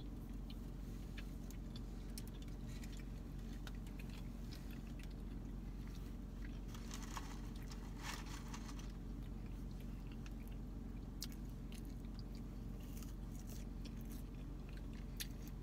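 Close-up chewing of a McChicken sandwich, with scattered small clicks and crunches that are busiest about seven to nine seconds in, over a steady low hum.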